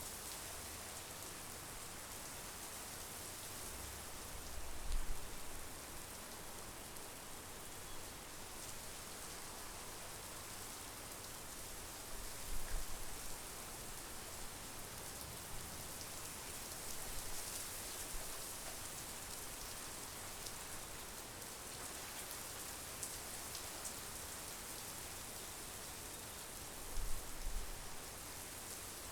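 Steady monsoon rain falling, an even hiss strongest in the high end, with three brief low rumbles spread through it.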